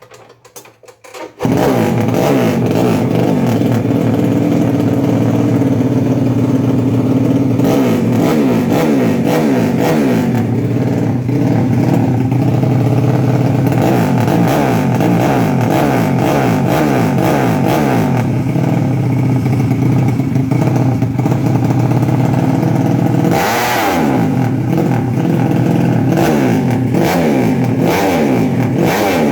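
Motorcycle engine running through an A&B Racing Exhaust 59 aftermarket exhaust. It starts sounding about a second in, then idles with repeated throttle blips and one bigger rev about two-thirds of the way through.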